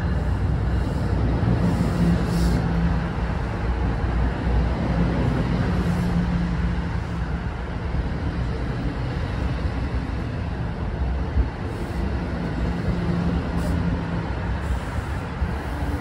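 NJ Transit electric train alongside the platform: a steady low rumble with a hum that comes and goes.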